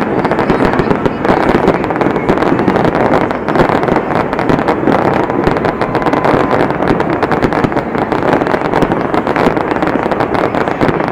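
Fireworks going off in a continuous barrage of rapid pops and crackles with no gap.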